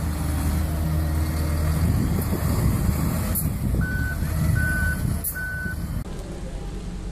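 Heavy truck's engine running with a low drone while its reversing alarm beeps three times at one steady pitch, starting about four seconds in. The engine sound drops away, quieter, about six seconds in.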